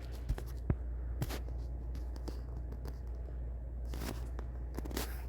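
Steady low background hum, with a few faint clicks in the first second and a half and two short rustles near the end.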